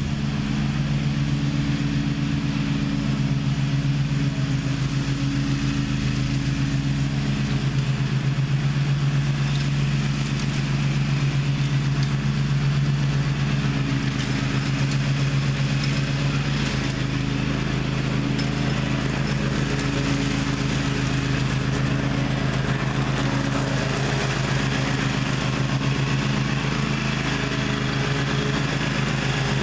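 Gravely ZTx 42 zero-turn mower's engine running at a steady speed, its pitch holding even with only slight swells in level.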